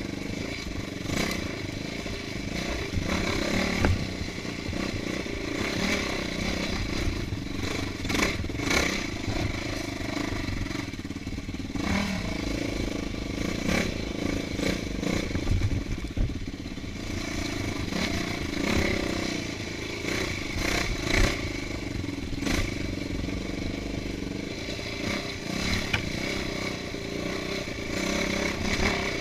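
Off-road motorcycle engine running on a rough trail, its revs rising and falling, with frequent knocks and clatter.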